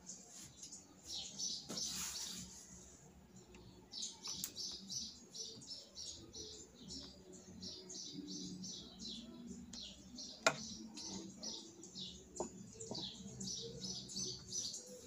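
A small bird chirping in quick, repeated high notes, several a second, starting about four seconds in, over a faint steady hum. A single sharp click sounds about two-thirds of the way through.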